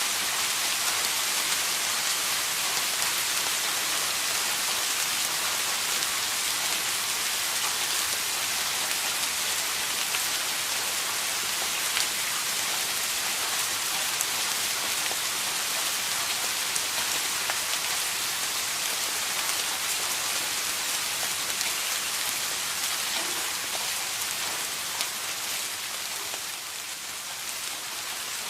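Steady rain falling, a dense even hiss with fine scattered drop ticks, easing slightly in loudness near the end.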